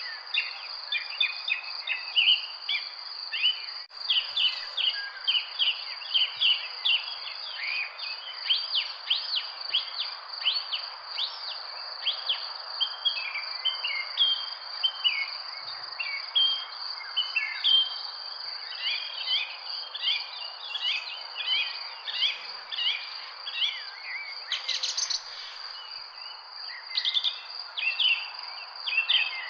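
Many birds chirping and calling in quick, overlapping short notes over a steady, high-pitched insect drone, with a faint even hiss of background noise underneath.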